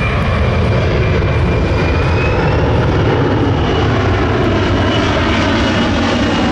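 Four-engine military jet transport's turbofan engines running loud and steady: a heavy low rumble under a high whine that rises slightly in pitch.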